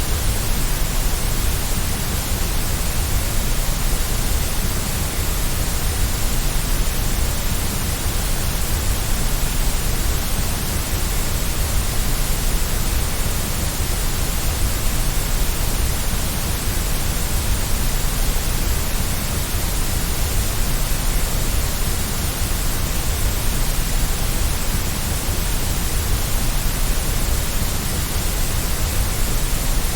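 Steady white noise: an even, unchanging hiss across all pitches, played to soothe a baby to sleep.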